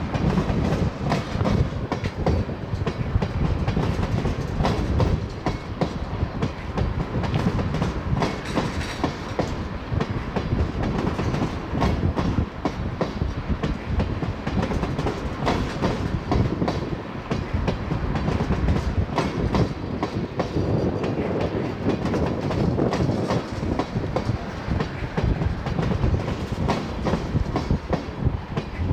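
Freight train of loaded oil tank cars rolling past, the steel wheels clattering over the rail joints in a steady, dense rumble.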